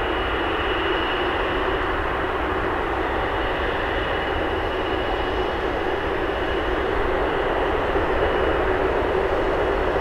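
Jet airliner engines running steadily: a broad, continuous rush with a faint high whine, growing a little louder near the end.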